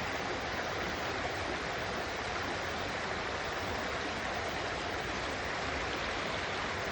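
Stream water flowing over rocks: a steady rushing babble.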